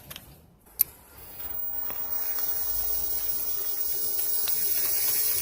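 A sharp click about a second in, then a steady hissing, mechanical running noise from the home-built hand tractor's drive that slowly grows louder over about four seconds and drops away at the end.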